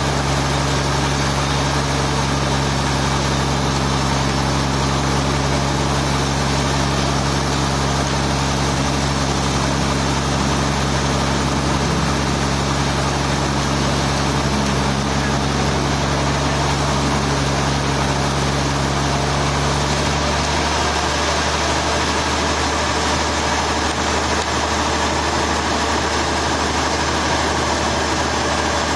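A sawmill's engine running steadily, with a constant low hum over broad mechanical noise. About two-thirds of the way through, the low hum changes.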